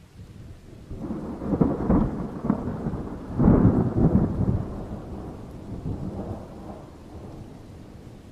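Thunder: a rumble that builds with several sharp cracks, peaks about three and a half seconds in, then rolls away slowly, over a steady hiss of rain.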